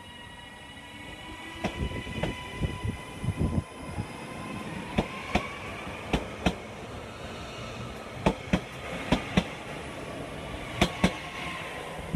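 Train wheels clicking over rail joints, many sharp clicks often in close pairs, over a steady high-pitched whine that bends up and back down in pitch midway.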